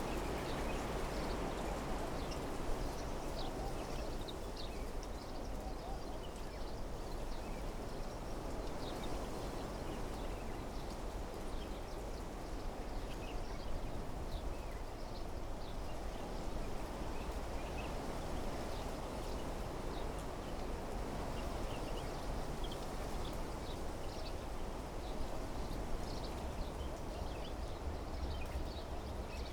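Wind blowing steadily through trees and shrubs, with many short, high bird chirps scattered throughout.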